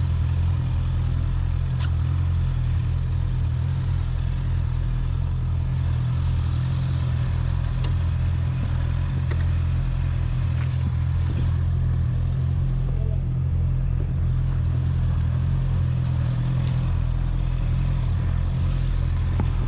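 Honda 650 inline-four motorcycle engine idling steadily at an even pitch, with a few faint clicks.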